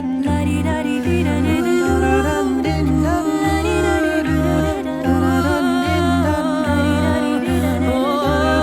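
A cappella vocal group singing a wordless passage: hummed chords with gliding upper lines over a pulsing vocal bass, about one and a half bass notes a second.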